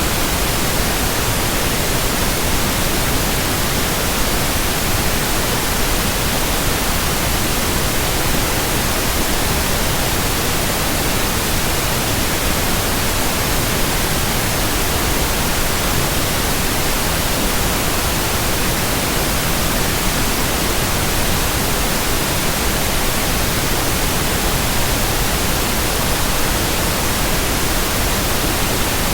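Steady white-noise hiss, spread evenly from deep to very high pitches and unchanging throughout, with no rhythmic swish or hum.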